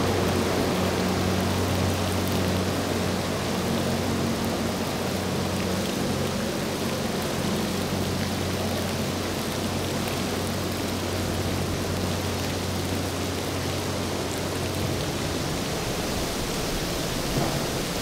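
Steady hiss of heavy rain with the low, steady drone of a passing motor yacht's engines underneath; the engine drone stops about 15 seconds in.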